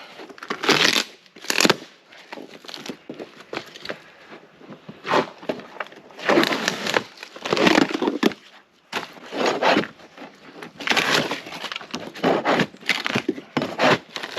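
Waterlogged styrofoam insulation being pried and torn off a plywood roof panel with a flat scraper. It comes as irregular scraping and tearing strokes, some a second apart, some in quick runs, with short pauses between.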